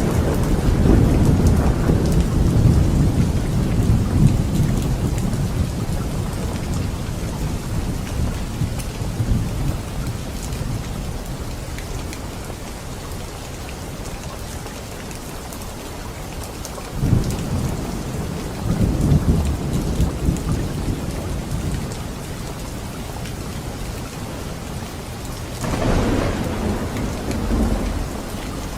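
Steady heavy rain with rolling thunder: a rumble dying away over the first several seconds, two more rolls about two-thirds of the way through, and another building near the end.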